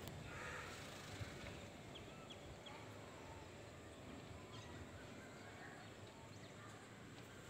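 Faint outdoor ambience with a few soft, distant bird chirps.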